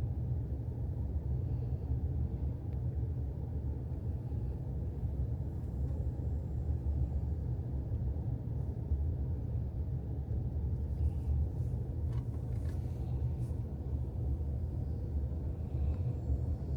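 Steady low rumble of a car driving, with no distinct events.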